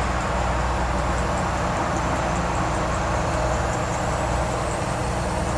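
Cargo truck driving at highway speed, heard with the passenger window open: steady engine hum and tire and road noise, with faint ticks repeating every fraction of a second. The driver takes the tapping for something stuck in the tire tread, a stone or possibly a bolt, turning with the wheel.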